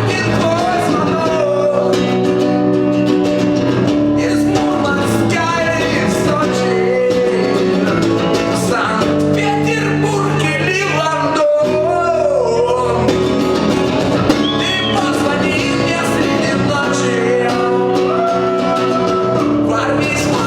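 Live acoustic performance: a male voice singing over strummed acoustic guitar, with a brief break a little past halfway.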